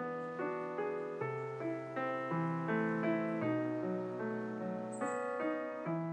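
Background piano music: a slow melody of single struck notes, each dying away, over held low notes that change about once a second.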